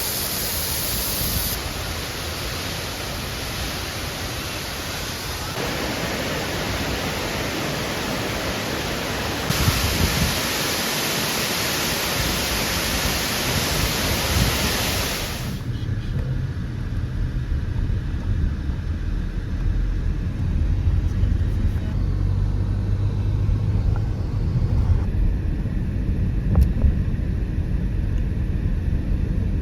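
Waterfall's steady rushing water, a dense hiss that jumps in level at several abrupt cuts. About halfway through it gives way suddenly to a low rumble.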